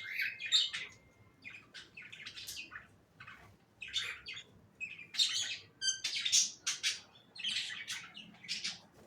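Budgerigars chirping and chattering: clusters of short, high, scratchy chirps and warbles with brief pauses between them.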